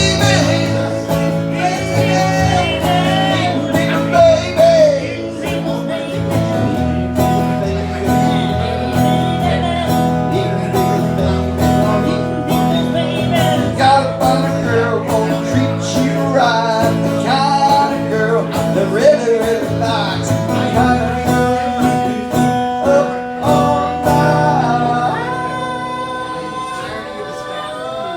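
Live country-style song on strummed guitar in an instrumental passage between choruses, with a bending melody line above the chords that thins out near the end.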